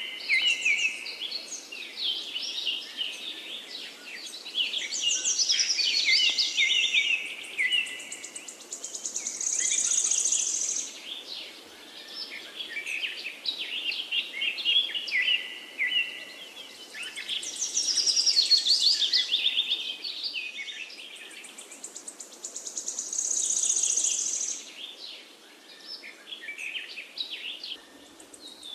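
Forest birdsong: several birds singing at once in overlapping chirps and high trills, with louder trilled phrases swelling up every several seconds over a faint steady background hiss.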